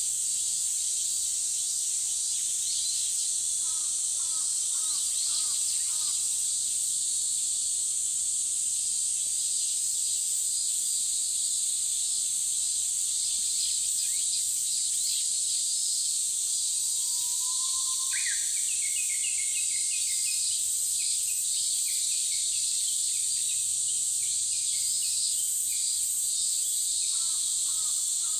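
Forest birds singing over a steady, high-pitched insect drone. Short repeated chirping phrases come around four to six seconds in and again near the end, and a rising note followed by a quick trill comes past the middle.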